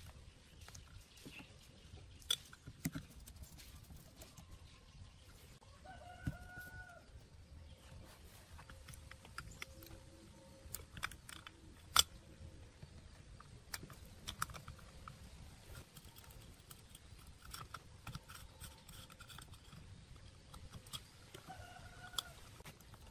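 A rooster crowing twice, faint, once early and once near the end, among scattered light clicks and knocks.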